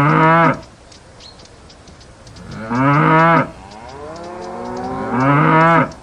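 A cow mooing three times, each moo short and loud. The last one swells up out of a long, quieter call.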